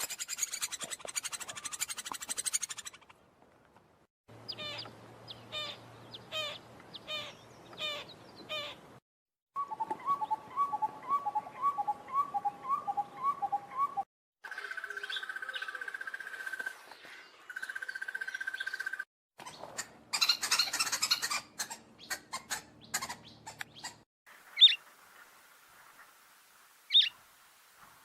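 Wild birds of several species calling and singing, in a run of short clips joined by abrupt cuts. Each clip has its own pattern: repeated short falling notes, a fast series of notes, a steady trill, then a few sharp single chirps.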